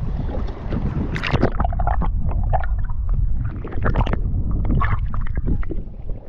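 Wind buffeting the microphone with a steady low rumble, while water splashes and slaps against a kayak's hull at irregular moments.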